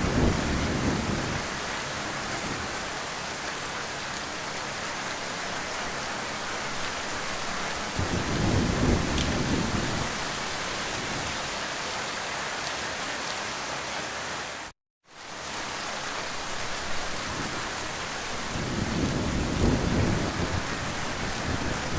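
Heavy rain falling steadily, with low rumbles of thunder swelling up at the start, about eight seconds in, and again near the end. The sound cuts out completely for a split second about fifteen seconds in.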